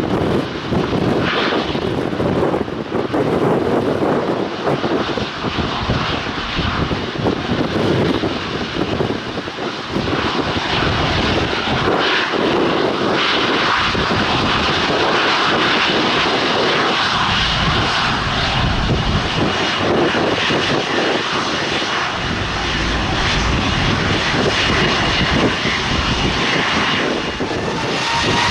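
Airliner jet engines running loud and steady, with a rising whine coming in near the end.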